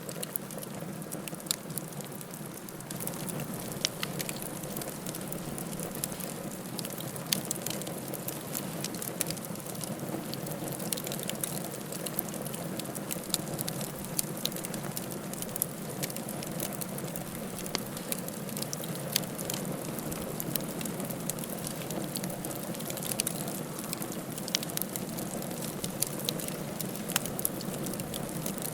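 Wood campfire burning with a steady rush of flames and frequent sharp crackles and pops from the burning wood.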